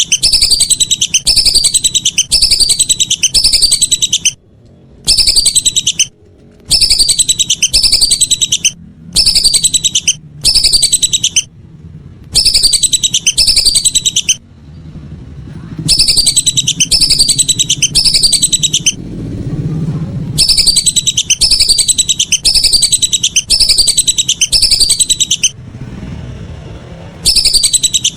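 Lesser whistling duck (belibis) calls, a loud lure recording: quick runs of high, falling whistled notes, about two a second, in bursts of a few seconds with short breaks between them.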